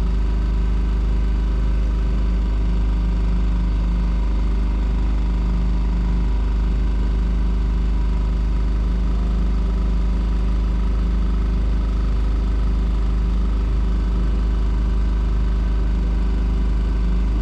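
Small petrol outboard motor on a Hurley 20 sailboat running at a steady speed, pushing the boat along under power. The low rumble and engine tones hold constant throughout.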